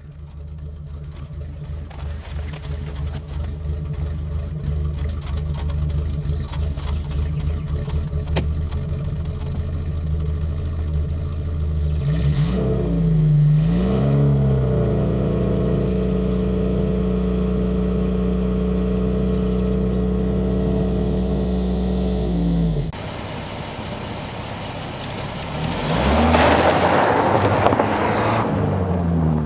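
1973 Citroën DS 23 IE's fuel-injected four-cylinder engine running at the exhaust pipe, revved up and down about twelve seconds in and then held at a steady higher speed. Near the end the car accelerates past on a dirt track, rising then falling in pitch.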